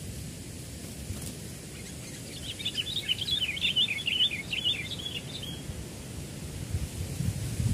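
Sooty-headed bulbul (kutilang) singing: a burst of quick, bubbly warbled notes lasting about three seconds, starting a couple of seconds in, over a low steady rumble of wind.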